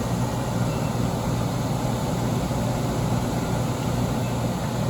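Late-1980s Emerson Quiet Cool 10,000 BTU air conditioner running on cool with its fan on low: a steady rush of air over a low, even hum from the running rotary compressor.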